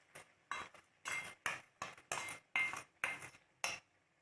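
A metal spoon scraping and clinking against metal cookware in about ten short, quick strokes, some with a light metallic ring: the dissolved spice paste is being scraped out of its bowl into the chicken curry.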